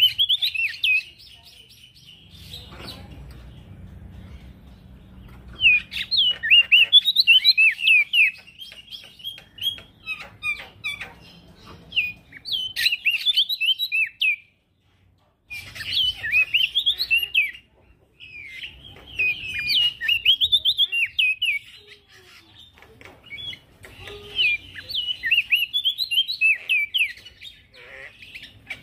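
Male prenjak daun singing: bouts of rapid, high chattering notes, each a few seconds long, with short pauses between them.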